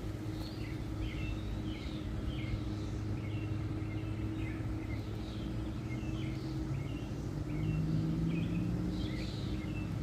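Small birds chirping repeatedly, short calls several times a second, over a steady low mechanical hum that rises in pitch and grows louder about eight seconds in.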